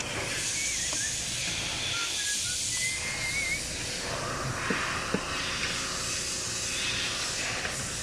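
A spray hissing steadily, with faint bird chirps in the background.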